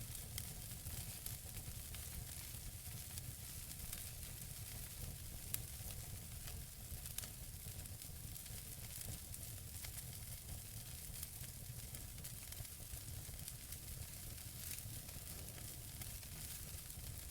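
Logs burning in a wood fireplace: a steady soft hiss and low rumble with scattered sharp crackles and pops, the loudest pop about five and a half seconds in.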